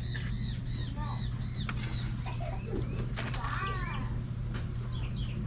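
Small birds chirping in quick, repeated arching notes, over a steady low hum.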